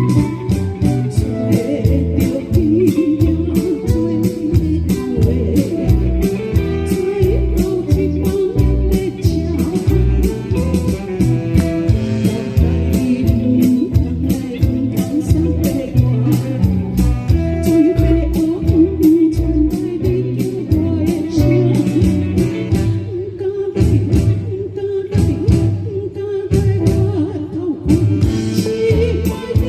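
A band playing a song: a vocalist singing over guitar, with a steady beat.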